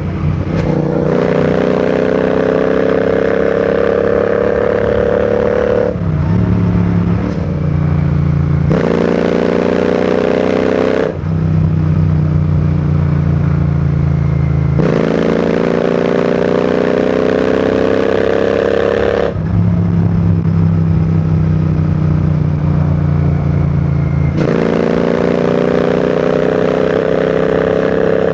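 Royal Enfield Continental GT 650's 648 cc parallel-twin engine and exhaust under way on the road. It pulls with a climbing pitch several times, each pull broken by a brief dip, and runs steadier at a lower pitch in between.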